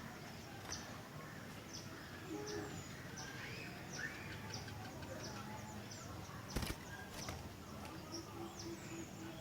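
Sooty-headed bulbuls calling back and forth: short, high, downward chirps repeat throughout, with lower warbled phrases among them. A sharp click comes about two-thirds of the way through.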